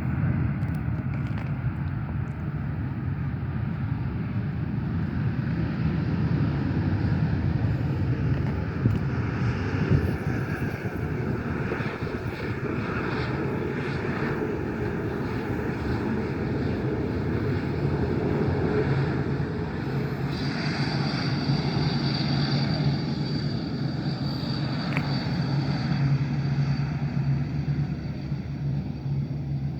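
An airliner's engines running, a steady rumble with a thin high whine joining about twenty seconds in.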